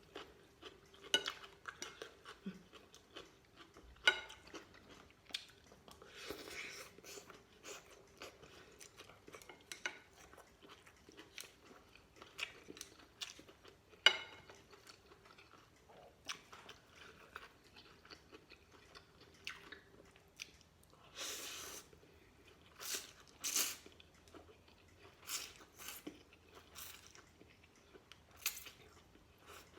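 Chewing noodles, with a spoon and chopsticks clicking against a bowl many times. There are a few longer noisy bursts about two-thirds of the way through.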